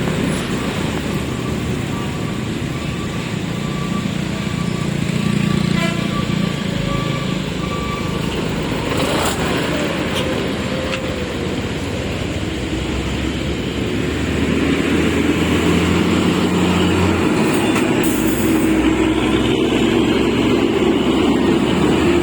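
Road traffic: steady vehicle engine noise, growing louder about two-thirds of the way through.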